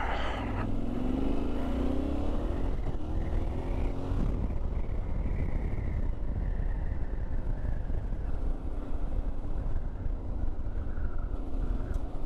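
Yamaha Ténéré 700's parallel-twin engine with an Akrapovič exhaust, rising in pitch as the bike accelerates over the first few seconds, then running steadily under wind noise.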